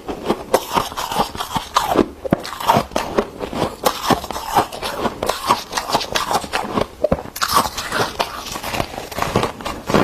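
Freezer frost crunching close to the microphone, in rapid, irregular crunches.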